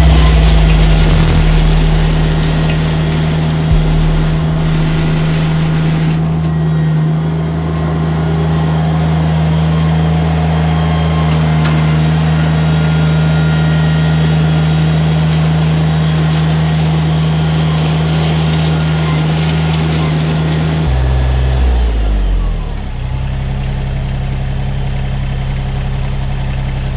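New Holland Workmaster 25S compact tractor's three-cylinder diesel engine running steadily at working speed while the loader bucket back-scrapes gravel. The engine note changes about 21 seconds in.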